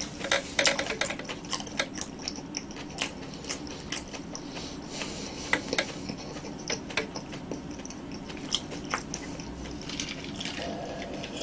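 Close-miked chewing of roasted sweet potato: soft, irregular wet mouth clicks and smacks. A sip from a cup near the end.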